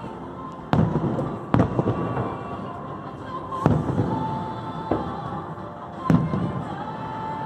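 Fireworks shells bursting in the air, about five sharp booms a second or so apart, each trailing off in a low rumble, over the show's soundtrack music with long held notes.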